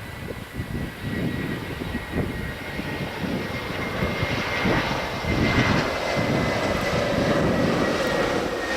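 Jet airliner's engines running as it passes, a steady high whine over a rough rumble that grows louder.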